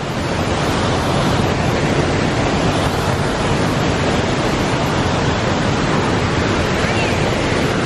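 Devil's Kettle waterfall rushing up close: a steady, loud, even noise of falling water.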